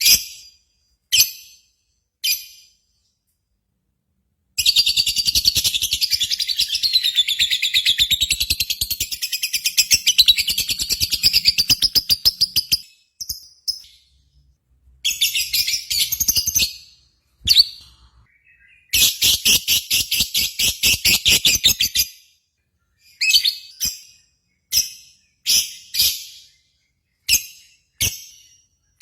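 Lovebird singing shrilly. A few short chirps lead into a long, very fast chattering trill lasting about eight seconds, then two shorter trills, then single sharp chirps about once a second.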